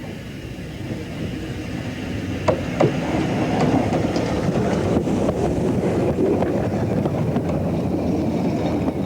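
Narrow-gauge double Fairlie steam locomotive and its train running, the rumble growing louder about two and a half seconds in, with two sharp clanks just then and lighter knocks afterwards.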